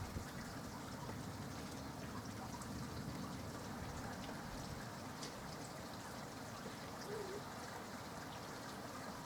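Steady rain falling, an even hiss with scattered faint drop ticks, and no thunder.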